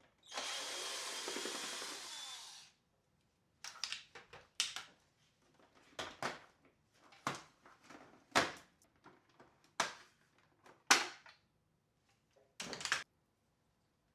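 A small motor whirs for about two and a half seconds and stops. It is followed by a string of separate clicks and knocks, as of hard plastic parts being handled.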